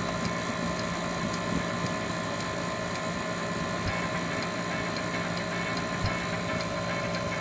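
Walk-in cooler's refrigeration condensing unit running steadily after its capacitor and burnt wiring were replaced: a constant hum of the compressor and condenser fan with an even rush of air.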